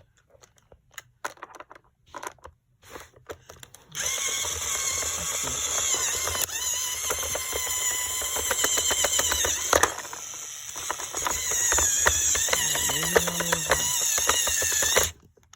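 Small battery-powered toy drill driving a plastic screw into a toy airplane, with a few plastic clicks from handling first. About four seconds in the motor starts a steady whir with fine rapid ticking, runs for about eleven seconds, then stops suddenly.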